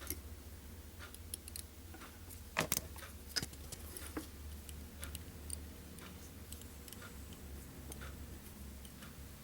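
Faint, irregular small clicks and light taps from handling fly-tying tools at the vise while a partridge hackle is wound on, with a couple of sharper clicks near the middle, over a low steady hum.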